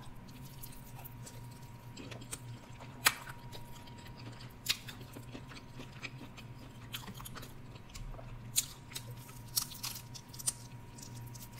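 A person chewing crispy fried seafood close to the microphone, with sharp crunches every second or so, the loudest about three seconds and nearly five seconds in.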